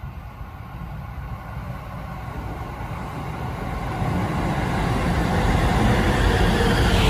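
Shin-Keisei Line electric train approaching along the platform, its running noise of wheels on rails and motors growing steadily louder as it draws near and passes close by.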